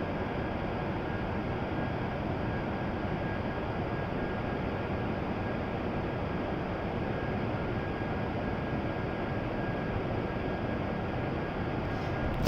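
Steady hum and rush of an E7 series Shinkansen train standing at the platform, with a faint steady high whine from its equipment.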